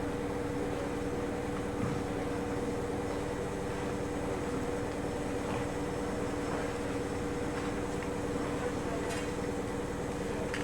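Industrial baler and its conveyor running with a steady hum: two constant tones over an even mechanical noise.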